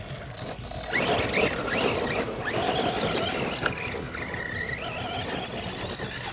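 Electric RC cars driving on rough ground, their motors whining in short rising and falling revs over a steady rush of tyre and wind noise.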